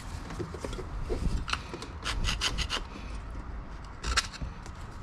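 Scraping old gasket residue and built-up coolant deposits off the engine's thermostat-housing mating surface, in short, irregular strokes, with a quick run of about five strokes a little past two seconds in and another stroke near the end.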